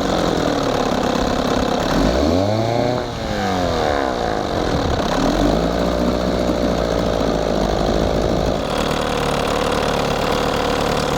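1968 Evinrude 6 hp two-cylinder two-stroke outboard running in a test bucket as it warms up. About two seconds in it revs up briefly and drops back to a steady idle.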